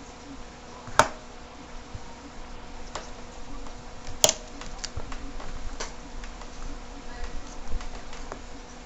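Small clicks and taps of tools and plastic parts being handled while a smartphone is taken apart, with two sharp clicks about a second in and about four seconds in. Under them runs a steady low electrical buzz.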